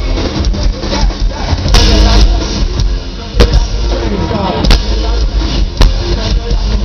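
Rock band playing live and loud, with a heavy bass line and sharp drum hits every second or so.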